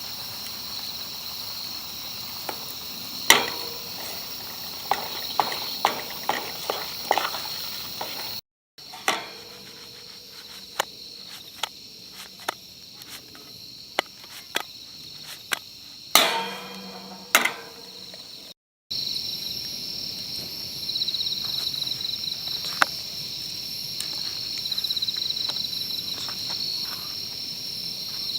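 Insects chirping in a steady high drone, with scattered clicks, knocks and a short metallic clink of gear being handled. The sound cuts out briefly twice.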